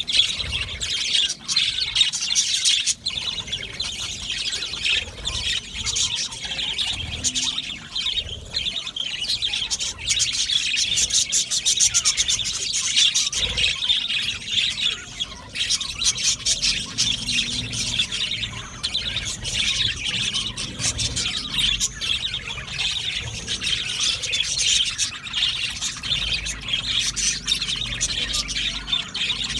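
A colony of budgerigars chirping and chattering together, a dense, unbroken mass of overlapping warbles, tweets and squawks.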